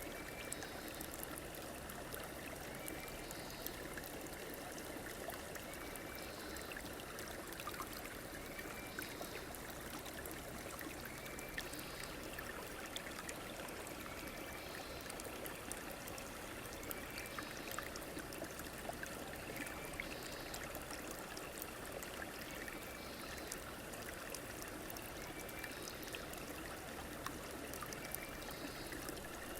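Stream water flowing steadily, with a short high chirp repeating about every three seconds.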